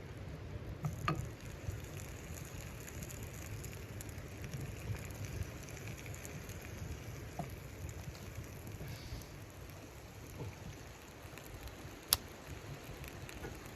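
Storm snow pattering steadily like rain, over a low rumble, with scattered small clicks and one sharp click about twelve seconds in.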